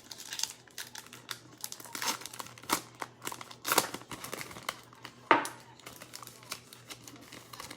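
Plastic wrapper of a Panini Mosaic NFL trading-card pack being torn open and crinkled by hand: a run of irregular crackles, the loudest about five seconds in.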